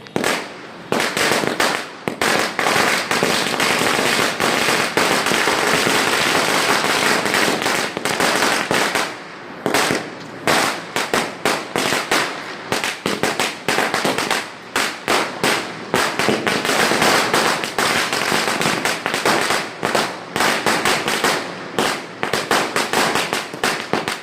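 Firecrackers going off in a fast, continuous run of sharp bangs and crackles, with a brief lull about nine and a half seconds in; after that the bangs come more separated, several a second.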